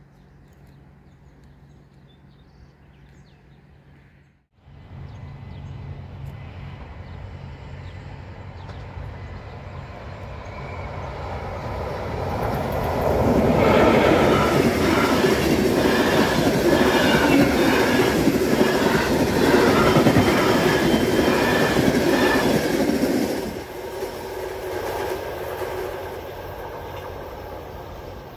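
Express passenger train passing close by: a rumble builds from about five seconds in, then loud wheel clatter over the rails for about ten seconds as the coaches go by, dropping off sharply before a fading tail.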